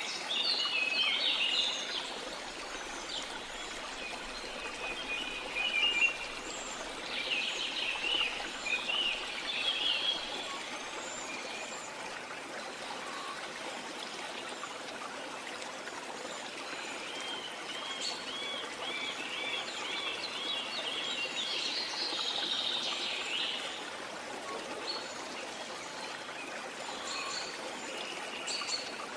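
Birds calling and singing over a steady trickling stream, with a run of quick repeated looping notes from one bird about two-thirds of the way through.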